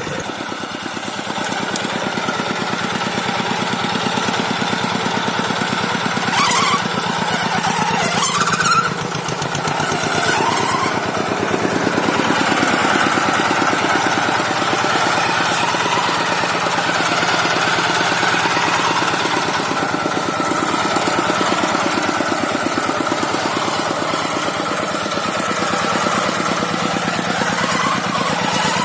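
Farm tractor engine running steadily while the tractor drives along, with two short sharp knocks about a quarter of the way in.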